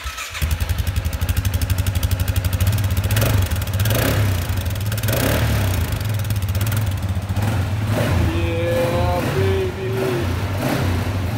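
A small engine running, just caught after being bump-started, its firing pulses quick and even and its speed rising and falling as it is revved.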